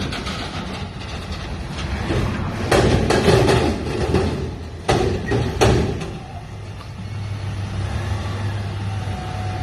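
Front-loader garbage truck running as it lifts a dumpster, with a cluster of loud metal clanks and clatter about three seconds in and two more bangs around five seconds.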